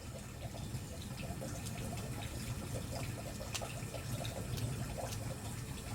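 Wood fire burning: a steady low rush from the flames with scattered sharp crackles and pops from the firewood.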